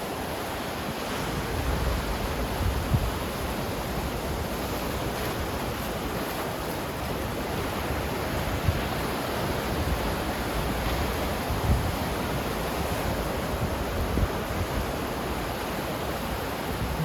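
Ocean surf washing steadily, a continuous rushing with low rumble, with wind buffeting the microphone in a few short gusts.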